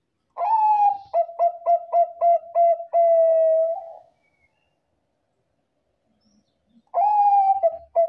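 Zebra dove (Bangkok perkutut) cooing its song: a long opening note, a quick run of about seven short coos and a long held final note, then after a pause of about three seconds the phrase starts again near the end.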